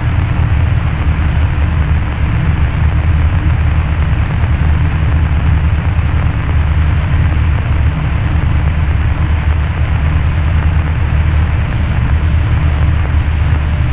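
Cessna 172's piston engine and propeller running steadily, heard from inside the cabin as a loud, even drone.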